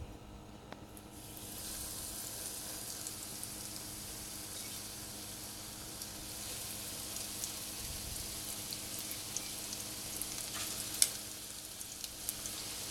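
Breaded chicken cutlets frying in hot oil in a pan: a steady sizzle that swells about a second in as the chicken goes into the oil, with a few sharp crackles.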